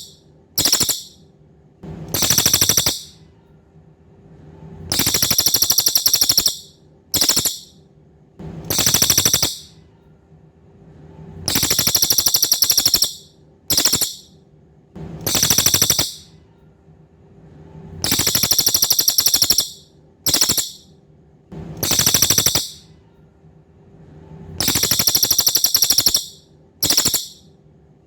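Cililin songbird calling: very high, rapid buzzing trills in a repeating phrase, a long trill, a short one, then another, about every six or seven seconds. A faint steady hum lies underneath.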